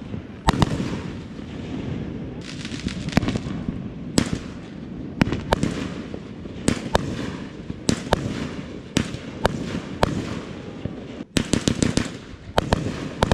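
Fireworks going off: a string of sharp bangs at irregular intervals over a continuous crackle. Near the end comes a rapid cluster of several bangs in quick succession.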